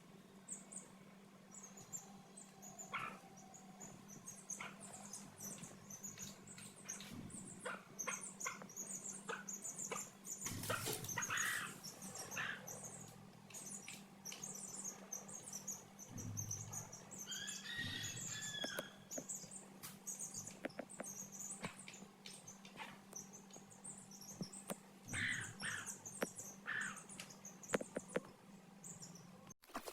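Young chicks cheeping: many short, high peeps throughout, with scattered sharp clicks and a louder call about 18 seconds in.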